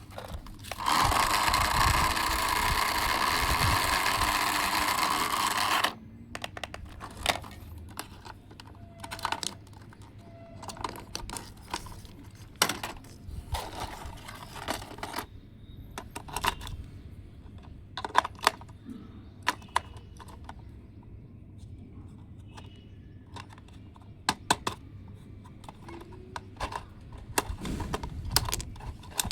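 A loud steady whirr for about five seconds, likely a small electric motor running, then stops suddenly. After that come scattered sharp clicks and taps of small hard parts being handled.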